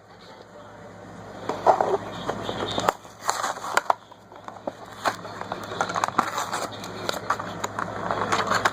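Plastic blister packaging and its cardboard card crinkling and crackling in irregular bursts as a die-cast toy car is unboxed by hand.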